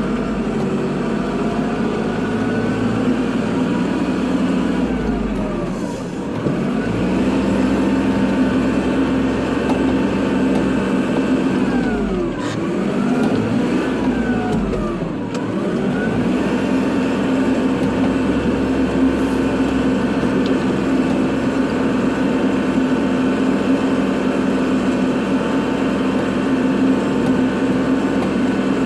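Kubota tractor's diesel engine running steadily while plowing snow. Its speed dips briefly and recovers three times, about six, twelve and fifteen seconds in.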